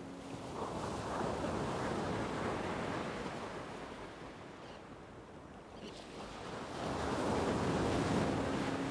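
Ocean waves washing in as two swells of surf. The first builds about a second in and eases off by the middle, and the second rises again about seven seconds in.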